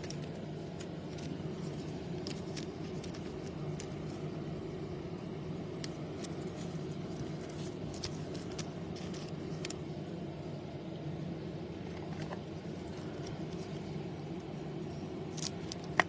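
Steady low hum with scattered faint clicks and taps of trading cards and packaging being handled, with a sharper click at the very end.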